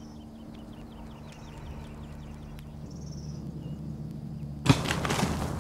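Woodland ambience: faint high chirps of small birds over a low steady hum. About five seconds in, a sudden loud whoosh of noise breaks in.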